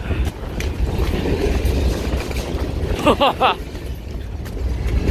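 A moving train rolling past close by: a steady low rumble with scattered clicks from the wheels. About three seconds in, a short shout or laugh cuts through.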